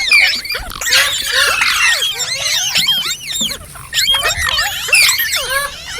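Green parrot chirping and squawking: a dense stream of quick, sliding chirps and squeaks, many overlapping, with a short lull about halfway through.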